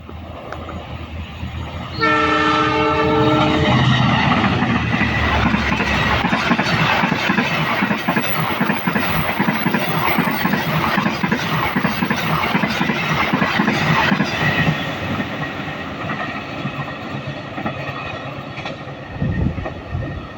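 A train approaches and sounds its horn in one blast of about two seconds. It then passes close by with its wheels clacking over the rail joints, loud for about ten seconds, and fades away in the last few seconds.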